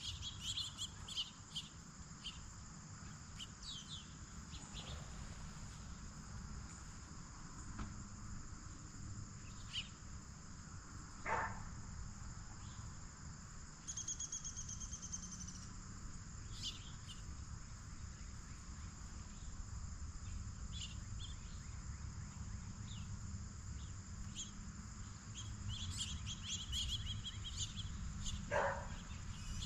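Steady chorus of crickets or other insects, with scattered short bird chirps over it. A rapid trill runs for about two seconds near the middle, and two sharp upward-sweeping calls come out, one about a third of the way in and one near the end.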